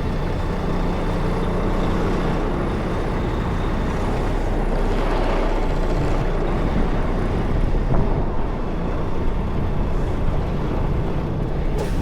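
Semi-truck's diesel engine running steadily, a low, even rumble.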